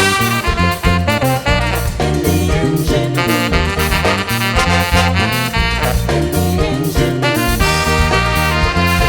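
Big band playing a soca-jazz instrumental passage: brass and saxophone lines over a steady drum beat.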